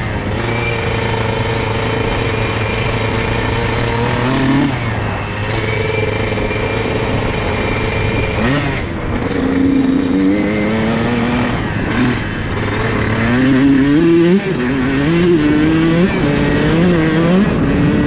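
Honda CR125 two-stroke dirt bike engine running under way. It holds steady revs for the first several seconds, then from about halfway through revs up again and again, the pitch climbing and dropping back with each gear change.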